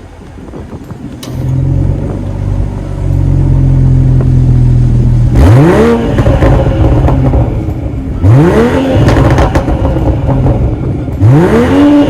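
BMW M340i's turbocharged 3.0-litre inline-six, heard through its stock exhaust, idling and then revved in three quick throttle blips about three seconds apart. Each blip rises sharply in pitch and falls back to idle.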